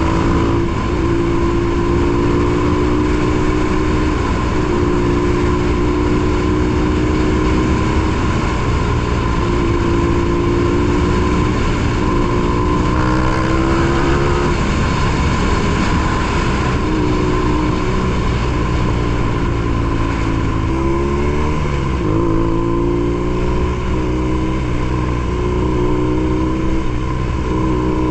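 BMW R nineT Pure's air/oil-cooled boxer twin running through a ZARD aftermarket exhaust while cruising in traffic. The engine note holds steady for long stretches, with shifts in pitch as the throttle changes about a second in and again about twenty seconds in.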